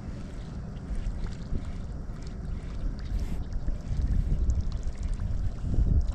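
Low, uneven rumble of wind buffeting the microphone on a kayak on open water, swelling louder about four seconds in and again near the end, with a few faint ticks.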